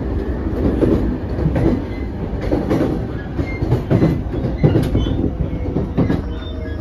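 Running noise inside a JR East E233 series 5000-subseries electric train car: a steady rumble of the wheels on the track, with irregular knocks about a second apart as the wheels run over the track.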